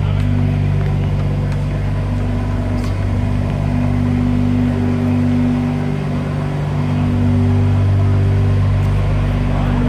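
A car engine running steadily at close range: a loud, deep, even drone with no revving.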